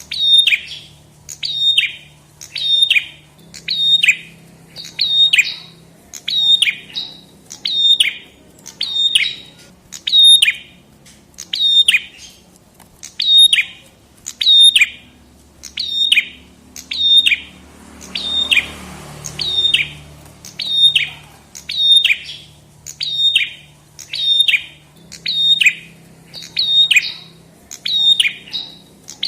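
Prenjak kepala merah songbird calling over and over, about one sharp, downward-sweeping note a second. There is a brief hiss of noise about two-thirds of the way through.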